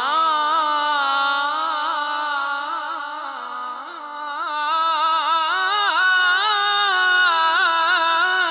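Devotional naat singing: a single voice holds long, ornamented wordless notes with a wavering pitch. It fades a little about halfway through, then swells again.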